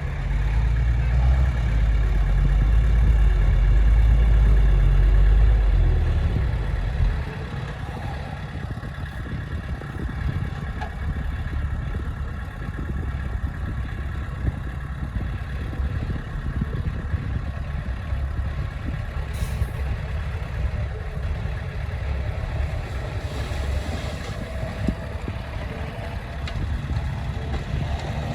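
Heavy earthmoving machine's diesel engine working hard for the first six seconds or so, then dropping back to steadier, lighter running, with a faint steady high whine throughout.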